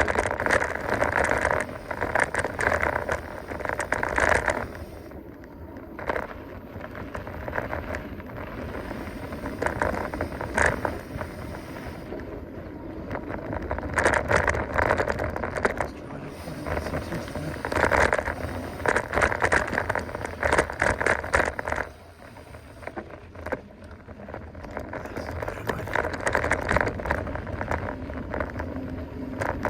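Mountain bike being ridden over a dirt trail: tyre noise and rattling clicks from the bike, coming and going in loud stretches with quieter spells about five seconds in and again past twenty seconds.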